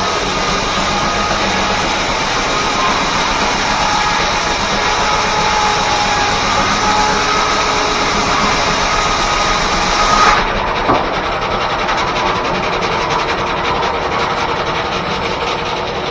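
Circular saw blade of a steam-driven 1880s R.R. Howell left-hand sawmill cutting a log, a loud steady hissing whine that cuts off suddenly about ten seconds in, followed by a short knock. The mill's drive keeps running underneath.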